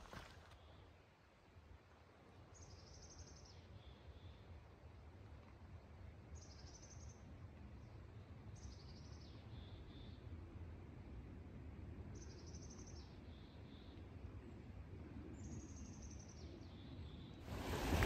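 A songbird repeats a short high song phrase five times, each a quick run of high notes ending on a lower note, over a faint low rumble. A louder rushing noise cuts in near the end.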